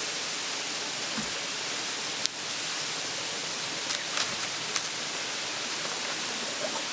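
Steady rushing of a mountain stream, with a few faint clicks about two seconds in and again around four to five seconds in.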